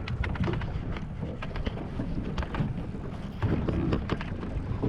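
Wind buffeting the microphone aboard a small boat: a steady low rumble with scattered clicks and knocks.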